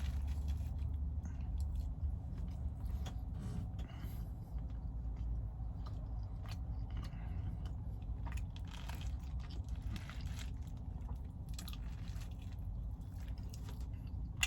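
A person chewing a mouthful of burger close to the microphone, with irregular mouth clicks, over a steady low hum.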